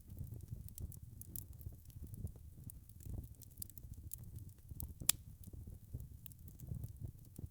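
Wood fire crackling in a fireplace: many small pops and snaps over a low steady rumble of burning logs, with one sharper pop about five seconds in.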